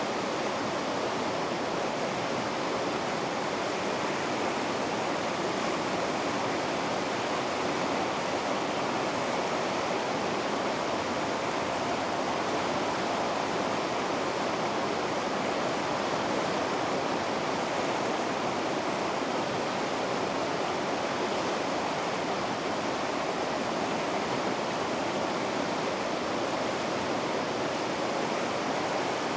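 Vikaköngäs river rapids rushing: a steady, even roar of fast water with no breaks.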